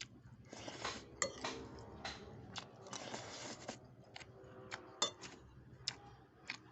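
Spoon and fork clinking against a bowl of bakso meatball soup while eating: about a dozen sharp, irregular clinks, with two longer noisy stretches of under a second each, one near the start and one about three seconds in.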